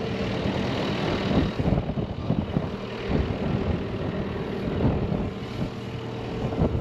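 Tractor engine running steadily at idle, with irregular low bumps and rustling over it.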